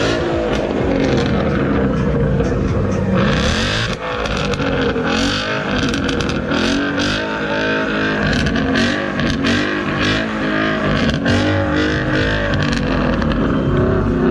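Sports car engines revving and accelerating away, the engine note rising and falling again and again, with sharp cracks mixed in.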